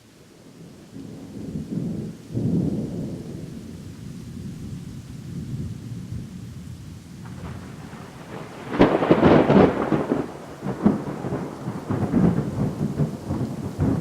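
Thunder: a low rolling rumble that swells early on. About nine seconds in a much louder crackling thunderclap breaks, then keeps rumbling with further cracks.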